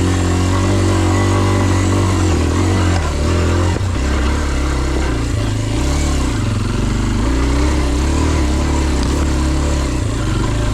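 Dirt bike engine running steadily close to the microphone. Its note drops about four seconds in and then rises and falls a little as the throttle changes.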